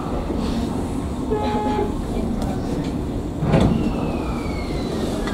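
Tokyu 9000-series electric train running along the track, heard from behind the cab: a steady rumble of wheels on rail. There is a brief louder thump about three and a half seconds in, and a thin whine falling in pitch near the end.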